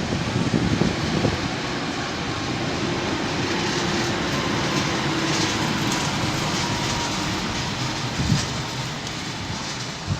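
A train running past on the rails: a steady rumble with a few knocks early on and a faint steady tone under it.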